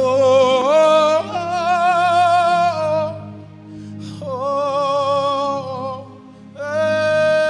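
Gospel worship singing: a solo voice holds long "oh" notes with vibrato in three phrases, over steady sustained instrumental backing.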